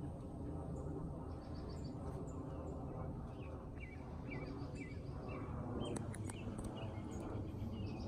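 A bird chirping in quick series of short, repeated notes over a steady low rumble, with the chirps thickest from about a second and a half to five seconds in and a few sharp clicks around six seconds.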